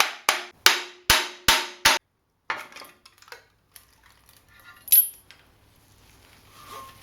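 A hammer striking metal about five times in quick, even succession, about two and a half blows a second, each with a ringing tone, stopping about two seconds in. Light metal clinks follow, with one sharp knock about five seconds in.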